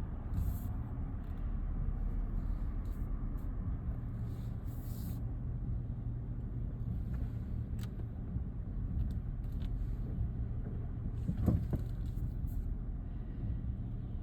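Car engine running with a steady low rumble, and a short, louder pitched sound about eleven seconds in.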